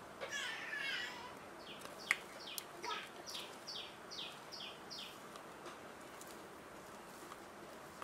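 A bird calling: a wavering call in the first second, then a run of about a dozen short, quick falling chirps, roughly three a second. A single sharp click about two seconds in.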